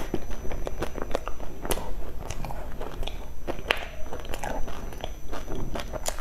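Close-miked chewing of a soft cake coated in dried meat floss and seaweed, a dense, irregular run of short wet clicks and crackles from the mouth.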